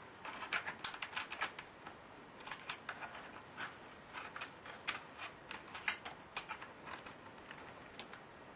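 Keys being typed on a laptop keyboard: quick, irregular clicks of several keystrokes a second, with a short pause about two seconds in.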